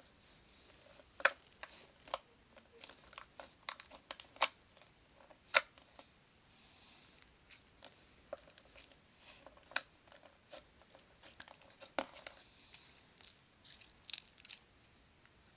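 Irregular small clicks and crackles from handling mini balloons and slime at close range, with a few sharper clicks now and then.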